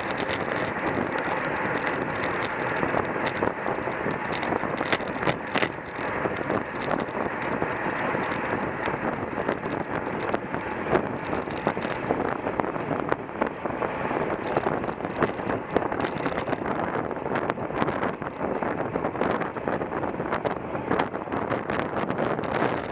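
Steady wind rushing over the microphone of a camera riding on a racing bicycle at speed, with many small clicks and knocks throughout.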